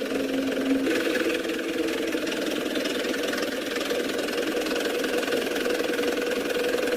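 Radio-controlled truck's motor and drivetrain running steadily, a continuous mechanical whine whose lower tone shifts about a second in.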